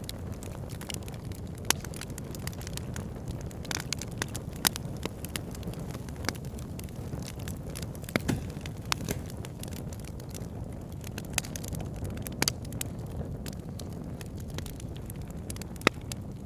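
Wood fire burning in a fireplace: a steady low rustle of flames with irregular crackles and sharp pops, a few standing out louder than the rest.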